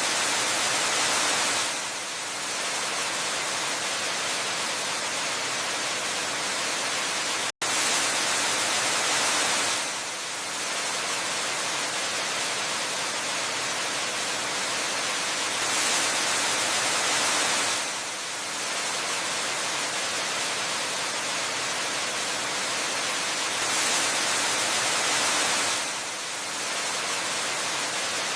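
Waterfall rushing as a steady hiss of falling water, swelling louder for about two seconds every eight seconds or so. The sound cuts out for an instant about seven and a half seconds in.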